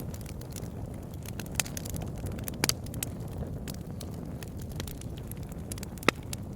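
Wood campfire burning with a steady low rumble of flames and irregular sharp crackles and pops, a few louder pops scattered through.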